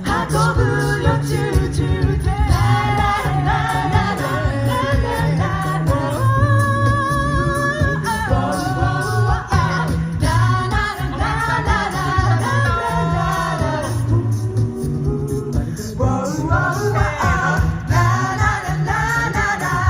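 An a cappella vocal group singing in harmony, several voices moving together over a sung bass line that steps from note to note.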